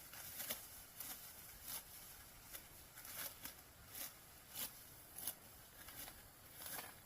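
Rice stalks being cut by hand with a sickle: a run of short rasping swishes, one to two a second, as handfuls of stalks are sliced.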